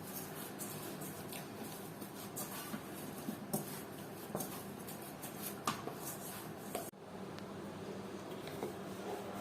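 Dough for rumali roti being kneaded by hand: faint handling sounds with scattered light taps.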